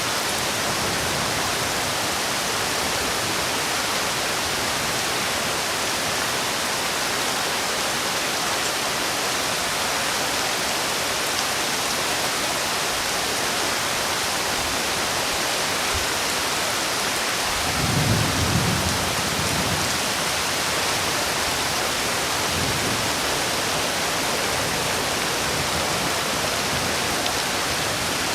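Steady heavy rain falling, with a low rumble of thunder that swells about two-thirds of the way through and fades within a couple of seconds, followed by a fainter rumble soon after.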